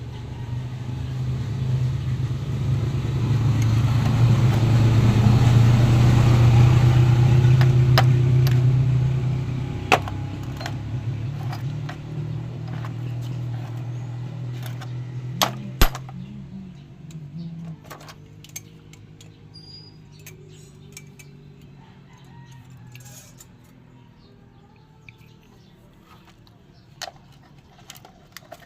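Motorcycle engine running with a steady low hum, growing louder over the first several seconds and then fading away, with a few sharp clicks along the way.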